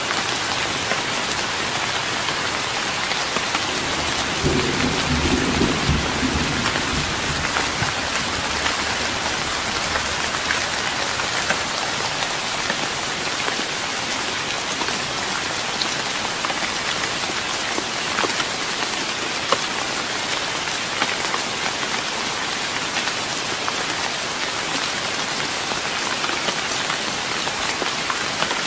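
Steady rain pattering on a wooden deck, with a low roll of thunder about four seconds in that swells for a couple of seconds and fades out by about ten seconds.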